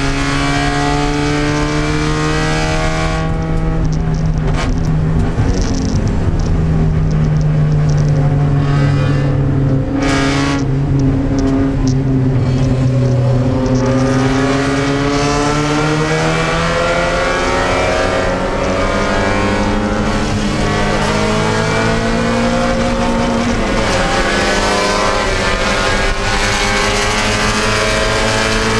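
Mazda MX-5 Spec Miata's four-cylinder engine running loud inside the stripped, caged cabin. Its pitch drifts slowly up and down as the throttle is eased on and off.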